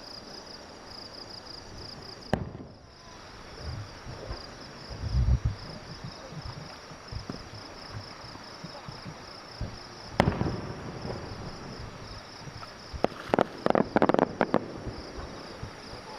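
Aerial fireworks going off: a sharp bang, a few low booms, another sharp bang, then a quick run of crackling bangs near the end. Insects chirr steadily in the background.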